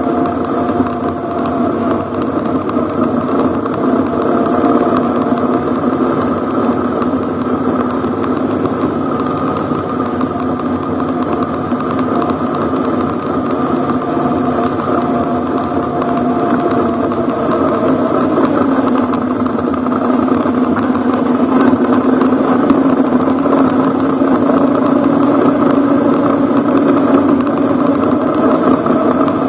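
Ducati Hypermotard's V-twin engine running at low, fairly steady revs as the motorcycle rolls along a gravel forest road. The revs and loudness pick up about two-thirds of the way through.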